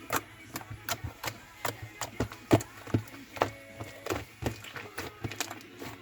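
A series of sharp taps, about two or three a second, fairly even.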